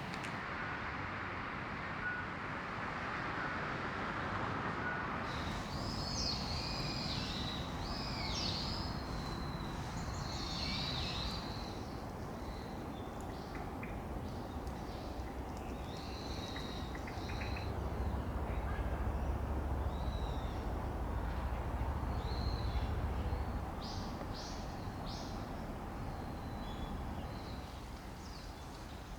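Wild birds calling and chirping in short, repeated high phrases, starting a few seconds in and continuing throughout, over a steady outdoor hiss. A low rumble swells and fades in the middle.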